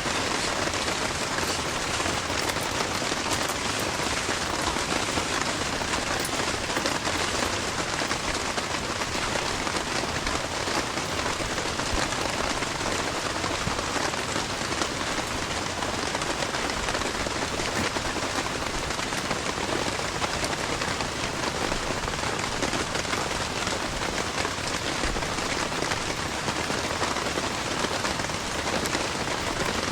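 Heavy rain falling steadily, a dense even patter with fine scattered drop ticks.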